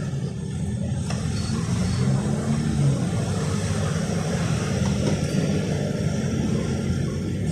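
A motor vehicle engine running steadily: an even, low rumble.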